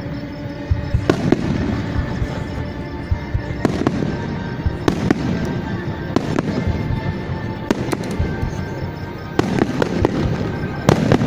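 Fireworks display going off: sharp bangs about every second or two, with crackling between them, over music.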